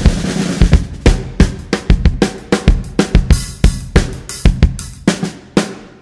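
Recorded music carried by a drum kit: kick and snare hits with ringing cymbals in a quick, uneven pattern. A held low bass note under the drums fades out about a second in, and the drums thin out briefly near the end.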